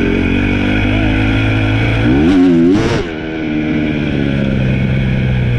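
Dirt bike engine running under a handlebar-mounted camera; about two seconds in the revs climb briefly, then drop off sharply before it settles back to a steady run.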